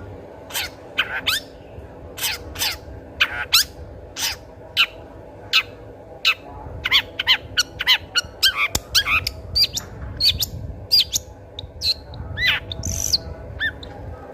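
Long-tailed shrike in full song: harsh, sharp calls about every half second, quickening about seven seconds in into a dense run of varied chattering notes, with a few rising and falling whistled notes near the end.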